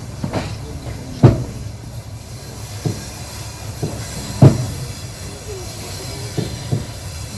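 Railway carriage wheels knocking over rail joints at irregular intervals, over a steady low running rumble; the two loudest knocks come about a second and about four and a half seconds in.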